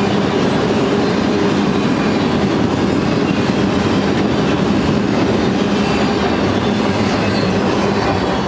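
BNSF auto-rack freight cars rolling past, their steel wheels running on the rails in a loud, steady rolling noise.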